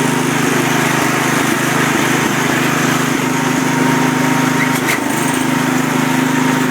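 1972 International Harvester Cub Cadet 128 garden tractor's single-cylinder Kohler engine running steadily, still a bit cold. A brief click sounds about five seconds in.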